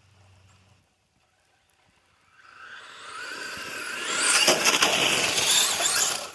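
Traxxas Sledge VXL brushless RC monster truck running on 3S, heard coming closer at speed: after a couple of seconds of near silence its motor and tyres build up and get louder, at their loudest near the end.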